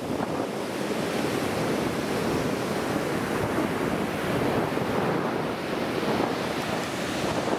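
Ocean surf washing on a beach, mixed with wind buffeting the microphone: a steady rushing noise.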